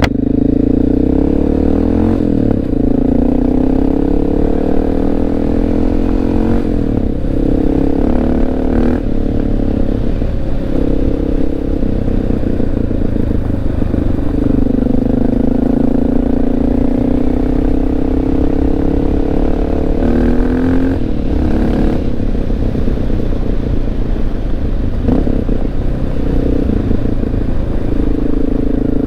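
Honda XR650L's single-cylinder four-stroke engine running under way, its pitch rising and dropping several times with throttle and gear changes, over a low rumble from riding on gravel.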